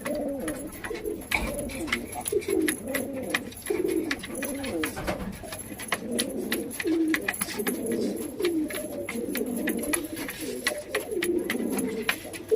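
Domestic pigeons cooing continuously, several low warbling coos overlapping each other, with many sharp little clicks and taps throughout.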